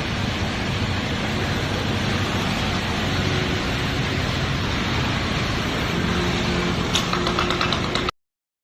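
Steady running noise of a BMW 320i at idle while its windscreen wipers run on new silicone blades, sweeping smoothly without chatter. A faint steady tone joins near the end, and the sound cuts off abruptly just before the end.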